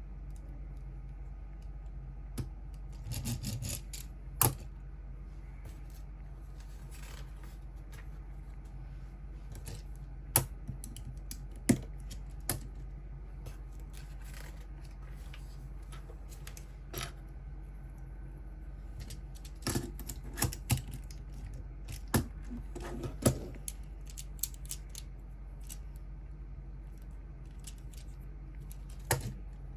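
Plastic Lego pieces being handled and pressed together: scattered sharp clicks and taps, some in quick little clusters, over a steady low hum.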